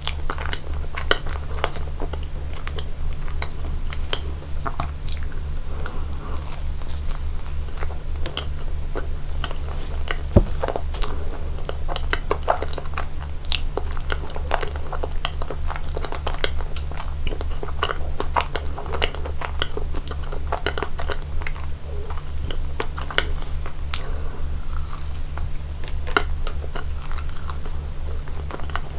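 Close-miked chewing and biting of slices of cake, with many short mouth clicks over a steady low hum. One sharper knock comes about ten seconds in.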